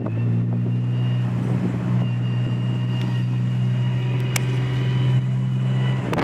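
Nissan 300ZX twin-turbo's V6 running at a steady engine speed, with a thin steady high-pitched whine from its manual transmission over the engine note. The pronounced whine is the sign of a faulty new transmission, which the owner links to changing its factory fluid.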